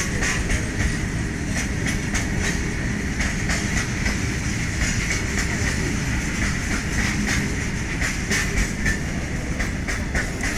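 Freight train of covered cement wagons rolling past: a steady rumble with the wheels clicking over the rail joints.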